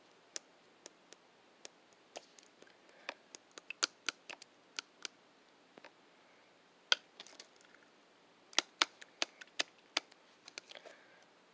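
Irregular sharp clicks and taps, some in quick runs and some spaced a second or more apart, over a faint steady hiss.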